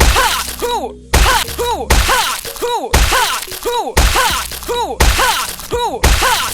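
A heavy thump with a crashing smash about once a second, eight times in all. Each is followed by pitched tones that rise and fall, over a steady low drone.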